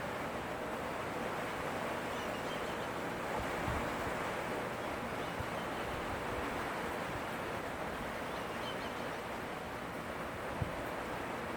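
Steady rushing noise of tropical-storm wind, with a few brief low thumps of gusts buffeting the microphone, the sharpest near the end.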